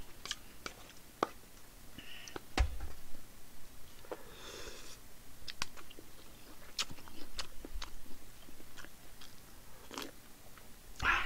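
A person chewing and biting food close to the microphone, with scattered sharp clicks from a spoon and chopsticks.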